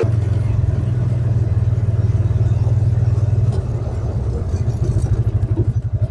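A vehicle engine running with a steady low throb that settles into a slower, more distinct pulsing beat about three and a half seconds in.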